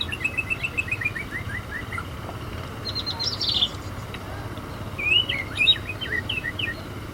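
Small birds chirping: a run of quick, falling chirps in the first two seconds, a short rapid trill about three seconds in, and more chirps from about five seconds, over a steady low hum.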